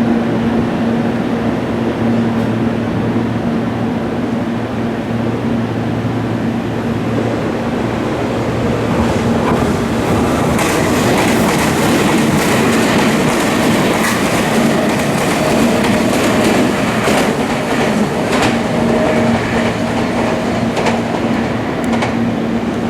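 Meitetsu electric train passing through a station at speed: loud steady running noise with a low hum, and from about halfway through, a long run of sharp clacks from the wheels.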